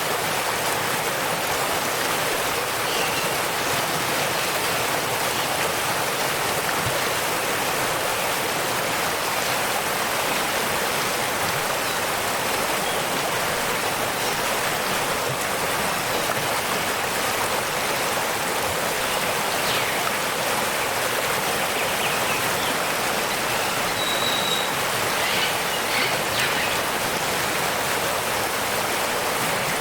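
Waterfall rushing in a steady, unbroken flow. A few faint bird chirps come through it in the second half.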